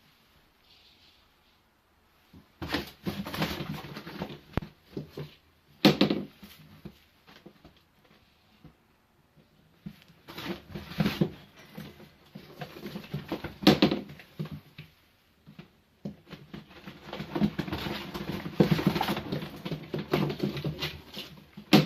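Racing pigeons being handled and packed into a shipping box: bursts of wing flapping and rustling and scuffling in the box, in three spells separated by quiet gaps.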